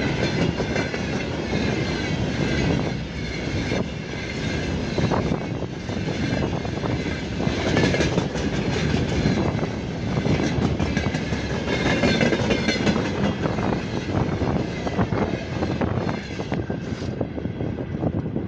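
Freight train rolling past, its wagon wheels clattering steadily over the rails, with wavering high-pitched wheel squeal above the rumble.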